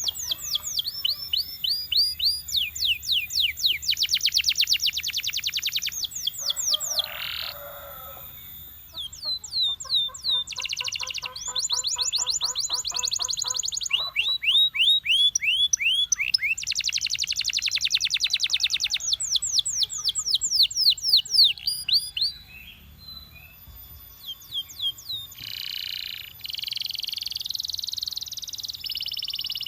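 Belgian canary singing: fast rolling trills of rapidly repeated high notes and quick rising and falling sweeps, in phrases with short pauses between them, including a lower, slower trill around the middle.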